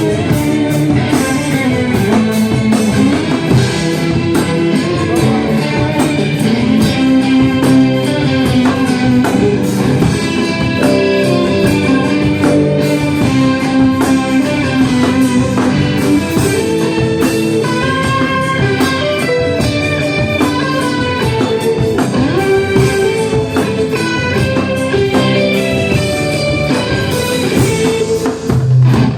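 Band music with no singing, led by guitar playing a run of melodic notes.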